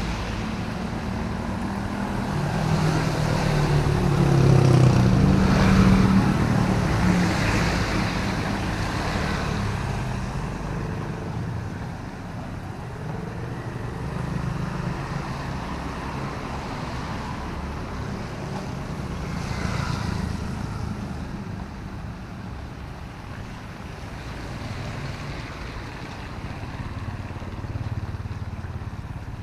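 A motor vehicle passing on a wet road: its engine rumble and tyre hiss swell to a peak about five seconds in, then fade. A second, quieter vehicle goes by near the twenty-second mark, over a steady hiss of light rain and street background.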